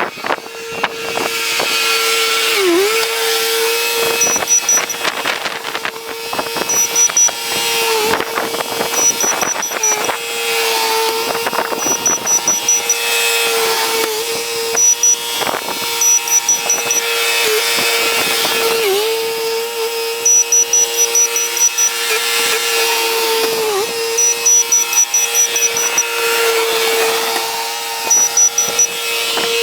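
Bobcat skid steer running at high revs while plowing snow, its steady engine whine dipping briefly in pitch every few seconds as it takes load, with scattered knocks.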